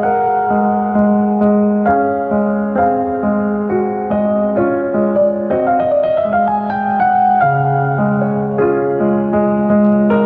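Gentle piano music: chords changing about twice a second over a held bass note, which moves lower near the end.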